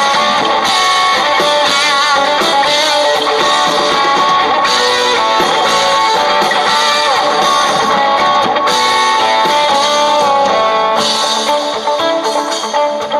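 Live band playing an instrumental passage led by guitars, without singing. The sound gets more uneven near the end.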